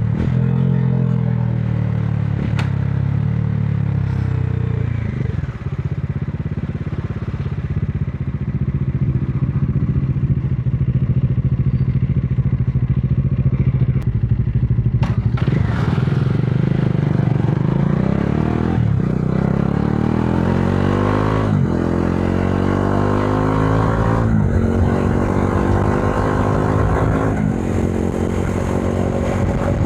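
Modenas Dominar 400's single-cylinder engine running at a fairly steady pitch, then accelerating hard through the gears: rising revs cut by an upshift four times in the second half.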